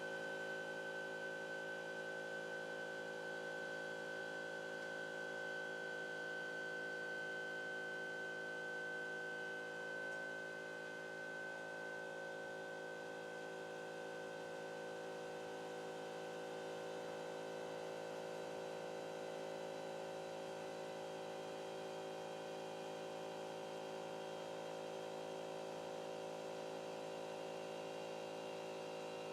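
Steady electric whine and hum from a CNC drawing machine's motors as it runs, made of several constant tones; the highest tone fades out about ten seconds in.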